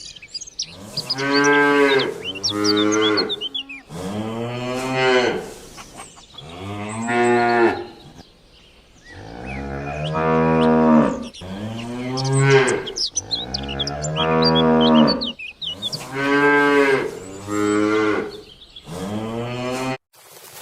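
Cattle mooing about ten times in a row, each moo about a second long, rising then falling in pitch.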